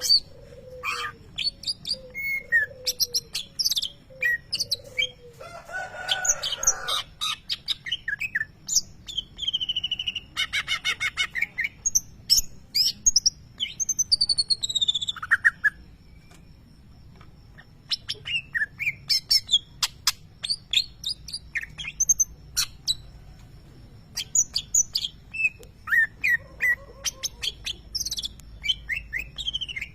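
Cucak ijo (greater green leafbird) singing a fast, varied run of chirps, sliding whistles and rapid trills, with its mimicry of lovebird calls worked in.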